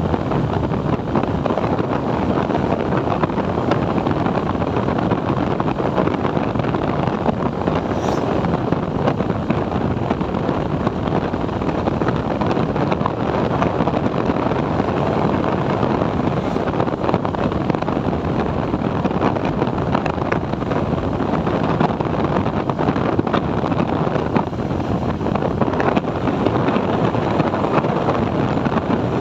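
Steady rush of wind over the microphone on a moving TVS Apache 4V motorcycle, with engine and road noise underneath.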